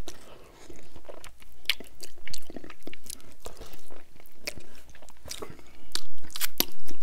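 Close-miked eating: a man biting and chewing sauced meat off a bone, heard as a run of sharp crunches, wet mouth clicks and smacks.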